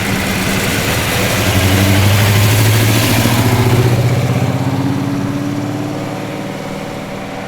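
Ford Falcon XY GT's V8 engine running at low revs as the car drives past, loudest about two to four seconds in, then fading away.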